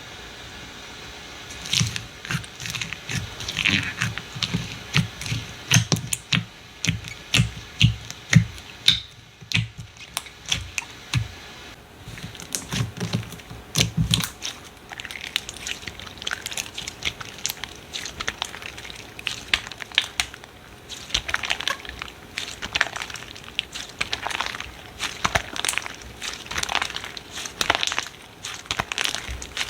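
Slime being squeezed and pressed by hand, giving a dense run of sharp crackles and pops that starts about two seconds in, with soft low squelching thumps through the first half.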